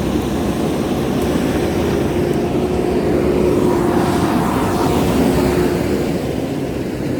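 JCB backhoe loader's diesel engine running steadily under work, with a steady whine joining the rumble in the middle of the clip.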